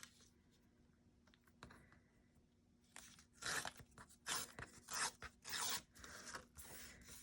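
Paper being handled and torn: after a quiet start with a light tap, a run of about six short rasping tears and rustles in the second half.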